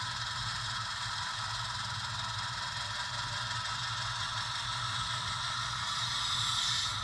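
HO-scale model locomotive backing a cut of freight cars along the track: a steady running sound from its motor and gearing and the cars rolling, swelling slightly near the end.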